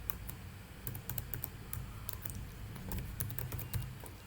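Typing on a computer keyboard: irregular runs of quick keystrokes.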